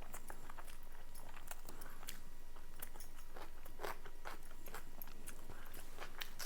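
Close-up sounds of a person biting and chewing food: irregular wet clicks and smacks, several a second.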